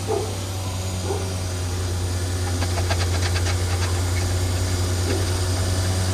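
A machine motor running with a steady low hum, with a run of light clicks and rattles about halfway through.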